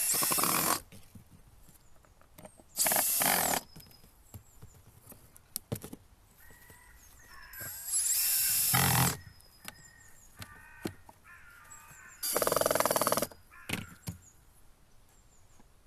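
Power drill run in four short bursts of about a second each, working into pine boards of a wooden water wheel.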